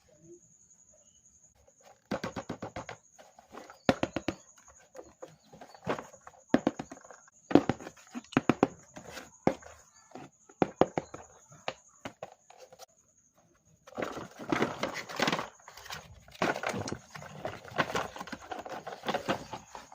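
Runs of rapid clicking and clattering, with a faint steady high-pitched whine underneath throughout.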